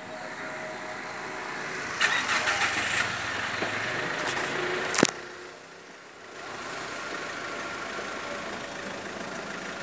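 Small car's engine cranked and starting about two seconds in, with a sharp click about five seconds in, then running steadily at idle.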